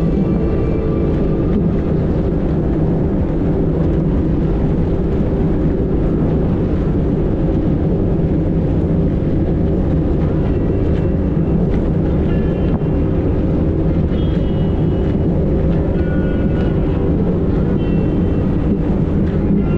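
A 90-horsepower Evinrude outboard on a fast inflatable boat running steadily at speed, a dense, unbroken rumble.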